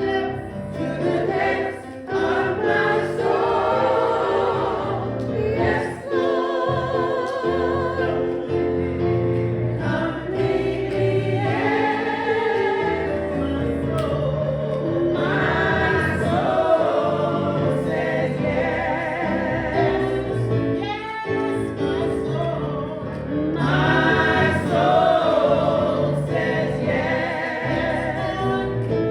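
Church choir singing a gospel song, the voices holding long notes with a wavering vibrato over sustained low notes.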